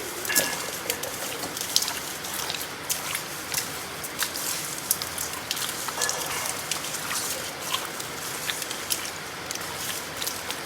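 Steady patter of rain with many scattered sharp drips and clicks.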